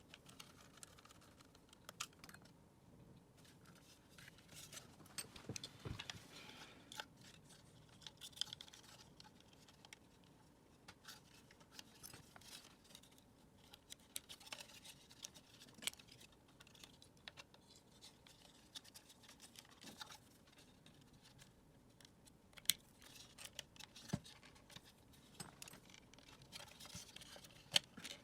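Faint, scattered clicks and scraping of small hand tools on plastic vacuum-cleaner parts being handled and worked apart, with a few sharper ticks.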